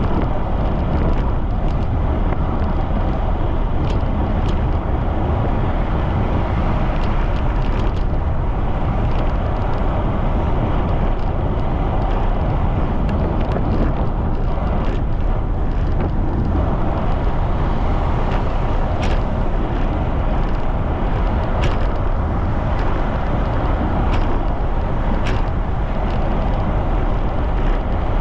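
Strong wind buffeting the microphone during a fast bicycle ride: a steady, loud rumble, with faint ticks now and then.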